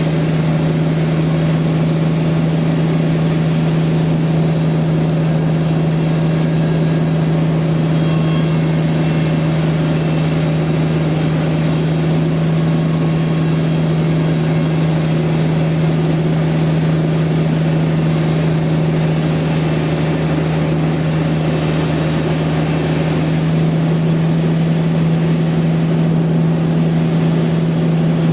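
Sawmill machinery running steadily, a constant loud hum with one strong low tone that holds the same pitch throughout.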